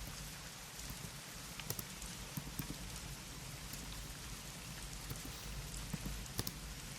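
Keyboard typing: irregular, soft key clicks over a steady background hiss.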